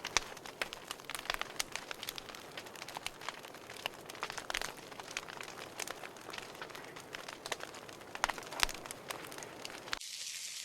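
Wood campfire crackling and popping, with many sharp irregular snaps. Just before the end it gives way to a steady hiss.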